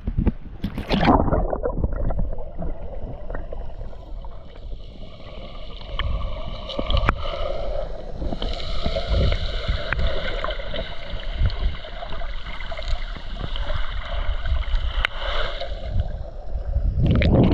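Sea water sloshing and churning around the microphone in low, irregular thumps, over a steady whine that strengthens about eight seconds in and fades near the end.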